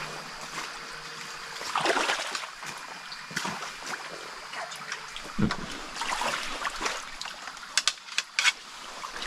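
Shallow stream water trickling, with uneven swells of splashing and a few sharp clicks near the end.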